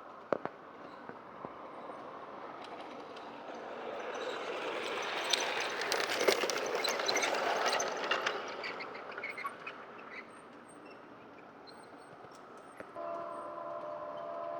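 G-scale model train passing close by on garden railway track: the running noise and rail clicks of the wheels swell to a peak about halfway through, then fade. Near the end a steady chord of tones begins.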